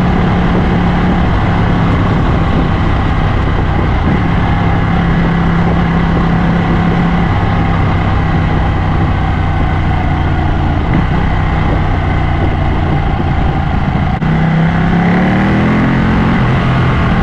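Ducati motorcycle engine running steadily while riding at speed. About fourteen seconds in it dips briefly, then the engine note rises as it accelerates.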